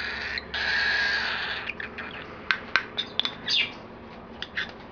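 Baby cockatiel giving raspy, hissing food-begging calls in two stretches during the first second and a half, then short sharp chirps and clicks as it feeds from the spoon.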